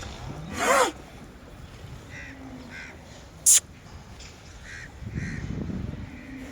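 Crows cawing: one loud, harsh caw near the start, then several fainter caws. A single sharp click about three and a half seconds in.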